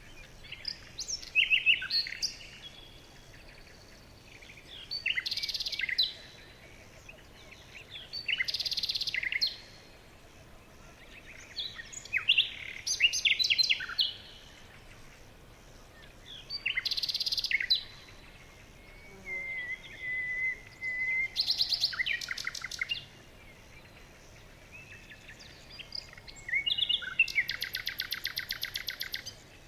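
Songbirds singing: short high chirping phrases every few seconds with gaps between, a held whistled note about two-thirds of the way through, and a long rapid trill near the end.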